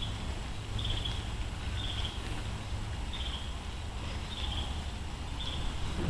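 An animal's short, high, buzzy call repeating about once a second, six times, over a steady low rumble.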